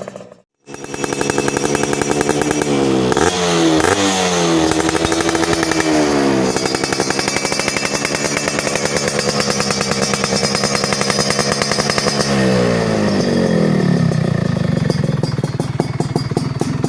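Yamaha F1ZR two-stroke single-cylinder engine revving through an ERS racing muffler. The note climbs, blips a few times and is held high for several seconds, then falls back to a lower, steady idle near the end.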